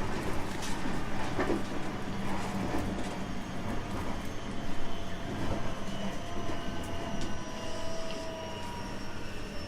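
Running noise inside a JR West 225 series 5000 electric train: steady wheel and track rumble. From about halfway in, the slowly sliding whine of its Toyo IGBT inverter and traction motors comes in.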